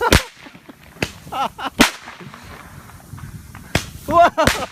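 Roman candle firing, four sharp pops spread over a few seconds, with short yelling voices between them.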